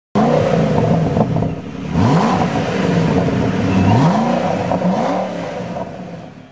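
High-performance sports car engine accelerating hard through the gears, its pitch climbing and dropping back at each of several upshifts, then fading away as the car pulls off.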